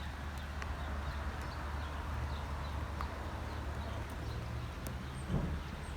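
Rain dripping and tapping in scattered small ticks over a steady low rumble, with one dull thump about five seconds in.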